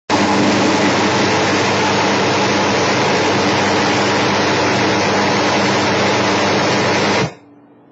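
Loud, steady white noise from a small white-noise generator, masking a man's spoken words so they can't be made out. It cuts off suddenly about seven seconds in.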